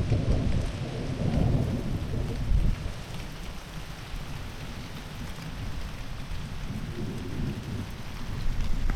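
Thunder cracks right at the start and rolls off in a low rumble over the next few seconds, with a fainter roll later on, over steady heavy summer rain.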